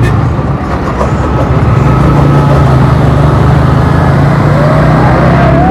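Motorcycle engine running steadily under way, with dense road and wind noise.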